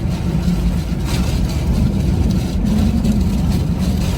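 A vehicle engine running steadily as a low, continuous rumble.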